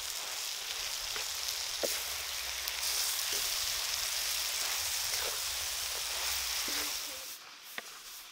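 Frog pieces, chilies and basil sizzling in a hot wok while a wooden spatula stirs them, with a few short knocks of the spatula against the pan. The sizzle grows louder about three seconds in and cuts off suddenly near the end.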